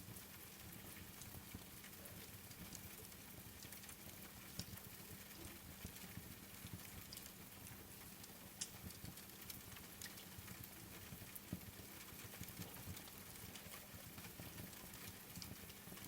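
Faint steady rain with a wood fire crackling, giving scattered sharp pops, a few louder ones spread through.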